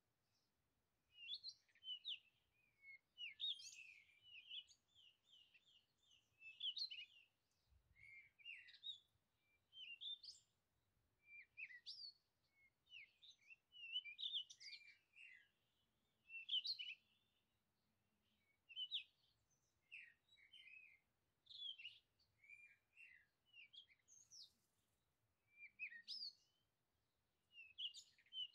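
Songbirds chirping and singing in short phrases of quick, downward-sweeping high notes, a phrase every second or two with quiet gaps between.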